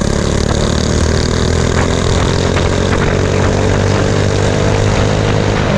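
Mini bike engine running hard at speed, its pitch climbing slowly as it accelerates, over a steady rushing hiss.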